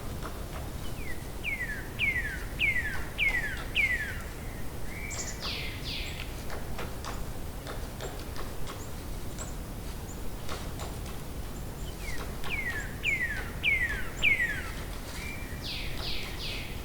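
A songbird singing the same phrase twice, about ten seconds apart: a quick run of five falling whistled notes, then two or three sharp high downward sweeps. Steady low background noise with scattered faint ticks runs underneath.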